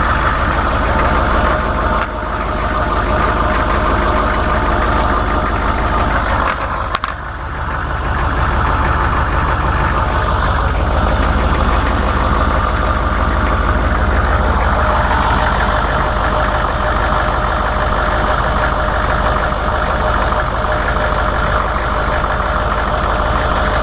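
A 1998 vehicle's engine running steadily at idle with an odd noise that a shop traced to the bottom end of the engine. The sound dips briefly about seven seconds in, then settles back.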